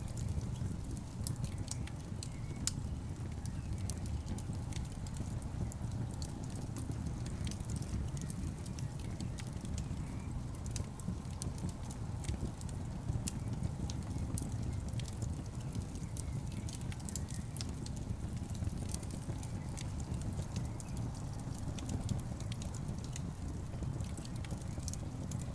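Burning logs in a fireplace: a steady low rumble of the fire with frequent scattered crackles and pops from the wood.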